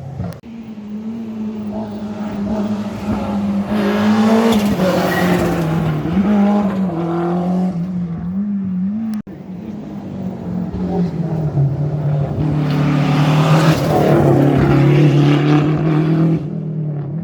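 Rally car engines at full attack, running hard through a stage with the engine note wavering and stepping down as the driver shifts and brakes. The sound breaks off abruptly about nine seconds in and a second car comes through, loudest near the end.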